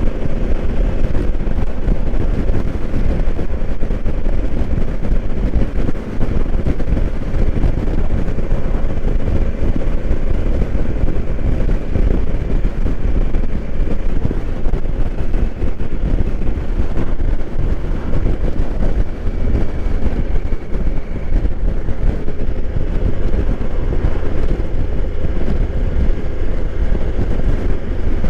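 2020 Honda Africa Twin's parallel-twin engine running at a steady cruise, with wind rushing over the microphone.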